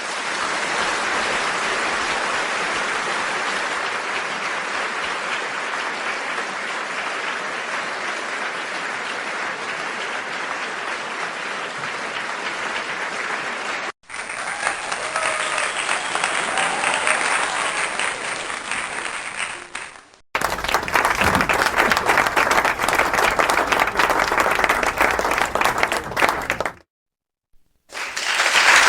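Several separate recordings of crowd applause played back to back: a long steady round of clapping for about fourteen seconds, cut off suddenly, then a shorter round that swells and fades, then a louder round with more distinct individual claps. After a second of silence another round of applause starts near the end.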